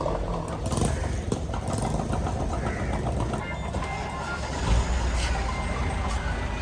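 Steady low rumble of motor vehicle engines, with scattered clicks and clatter over it.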